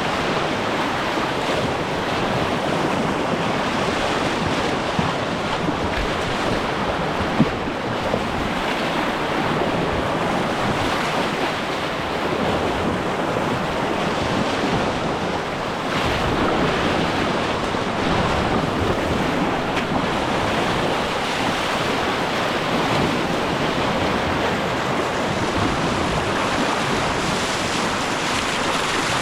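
Steady rush of river water around a kayak on a whitewater run, with some wind noise on the microphone. A brief sharp knock about seven seconds in.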